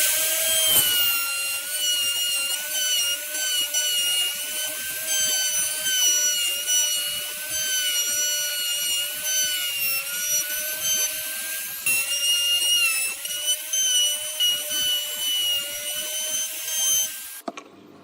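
An electric power tool running steadily on wood, its motor pitch wavering slightly under load, then cutting off about seventeen seconds in.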